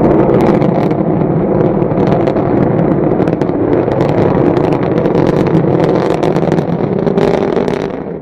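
Rocket engine roar: a loud, steady rumble with crackling all through, dying away near the end.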